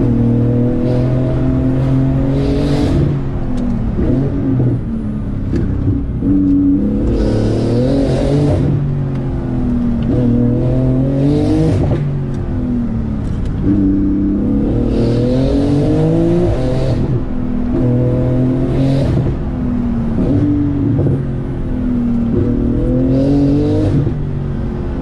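Porsche 911 GT2 RS twin-turbo 3.8-litre flat-six heard from inside the cabin, pulling hard and dropping back about six times as the car accelerates, lifts and shifts, with a brief hiss at the top of several pulls.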